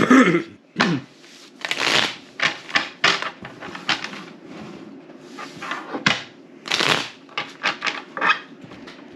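Playing cards being handled, sorted and laid down on a table: a string of short papery swishes and flicks, some sharper than others.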